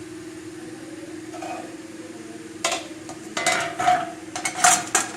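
Metal spoon clinking and scraping against a cooking pot, a quick run of sharp strikes in the second half, over a steady low hum.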